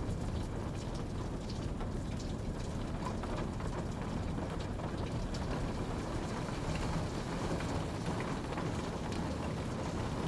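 Steady rain falling, with a dense, deep wash of noise and scattered individual drops ticking on a surface.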